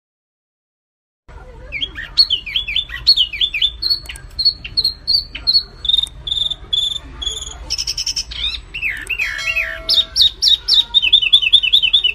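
Songbird song from a masteran recording of wambi mini and kapas tembak: after a moment of silence, fast high chirps in varied repeated phrases begin, ending in a rapid run of repeated notes, over a low steady hum.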